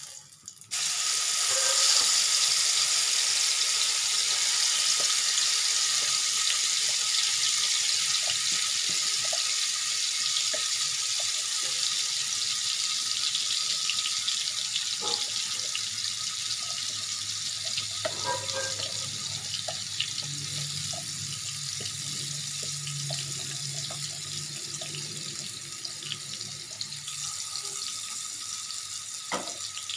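Blended spice paste sizzling in hot oil in a nonstick wok, with a sudden hiss as it hits the oil about a second in that slowly grows quieter.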